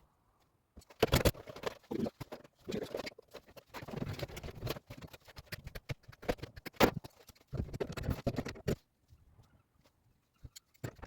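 Irregular knocks, scrapes and clatter of hands-on work on boiler pipework and fittings, in bursts with short pauses.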